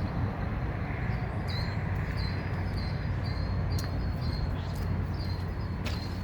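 A small bird chirping over and over in short, high, evenly spaced notes, over a steady low outdoor rumble. A couple of sharp clicks come near the end.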